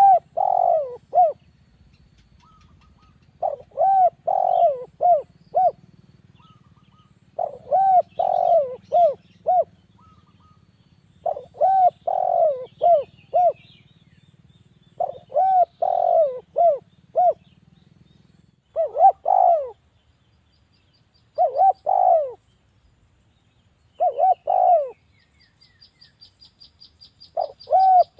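Spotted dove (derkuku) cooing: the same phrase of four or five rapid coos, repeated about every four seconds, eight times. Near the end a faint fast high ticking starts under the coos.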